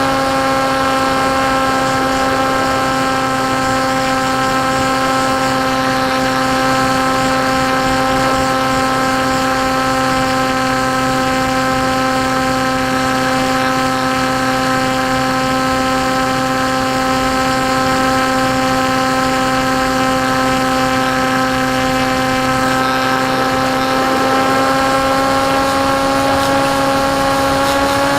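Electric motor and propeller of a foam KT Wing flying wing running at steady cruise throttle: an even hum with a near-constant pitch that rises slightly near the end, over rushing wind noise.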